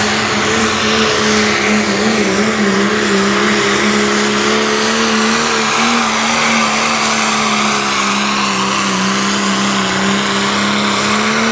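Modified Cummins diesel in a Dodge Ram pulling truck running flat out at high rpm during a pull, its note holding nearly level with slight wavering. It cuts off abruptly at the very end.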